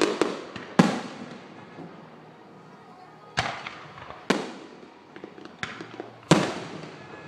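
Aerial fireworks bursting. A crackling cluster fades as it opens, then come four loud booms a second or more apart, each dying away in a long echoing tail, with a fainter pop in between.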